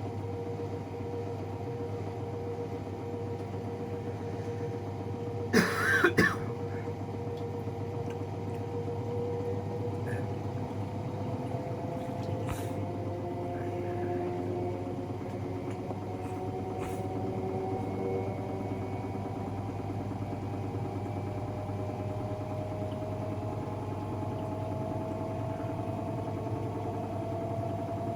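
AEG Protex Plus L87484AFL front-loading washing machine in its final spin, the drum motor's whine rising slowly and steadily as the spin speed climbs; the tub unit is newly fitted after the old one's bearings failed. A short loud burst comes about six seconds in.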